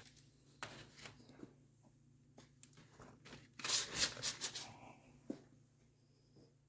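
Handling noise: scattered light clicks and a rustling, scraping burst of about a second near the middle, over a faint steady hum.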